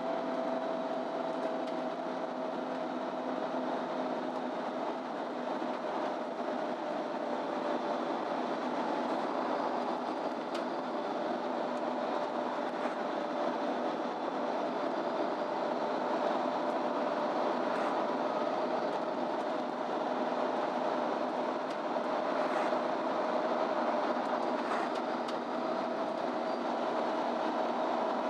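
MAN Lion's City Ü bus heard from inside while under way: a steady engine and drivetrain whine whose pitch dips slightly and comes back up, over an even rumble of road noise, with a few faint rattling ticks.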